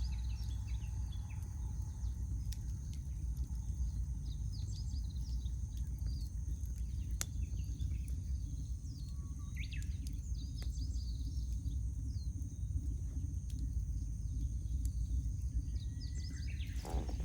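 A wood campfire crackling, with occasional sharp pops, over a low steady rumble. Small birds chirp and sing throughout.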